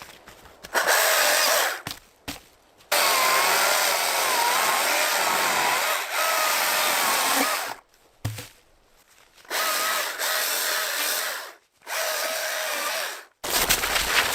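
A handheld power tool's motor running in four bursts of a few seconds each, the longest about five seconds, its whine wavering slightly in pitch, with short pauses in between.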